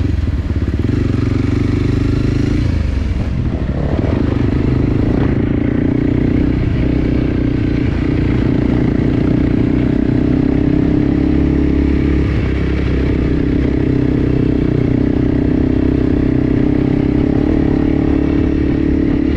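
Enduro dirt bike engine running steadily under way, with rattle and scrape from the ride; the engine note shifts about three to four seconds in, then holds.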